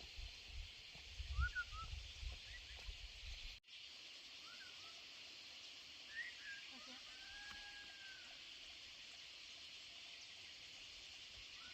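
Quiet outdoor ambience: a steady high hiss with a few short, scattered bird chirps and one longer arching call near the middle. A low rumble, like wind on the microphone, fills the first few seconds and cuts off suddenly.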